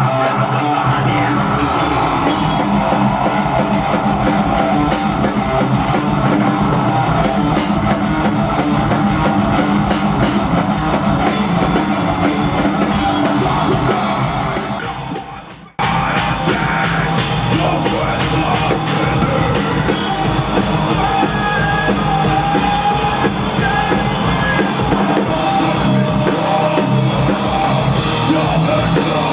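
Rock band playing live on stage, drum kit and amplified instruments, heard as raw stage sound. About halfway through the music fades down and then cuts straight back in at full level.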